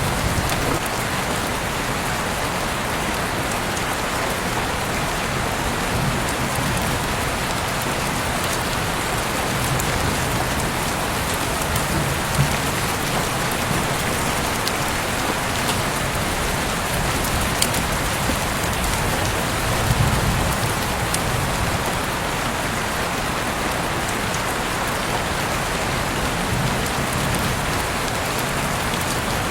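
Heavy rain falling steadily, a dense even hiss, with a few sharper drops standing out now and then.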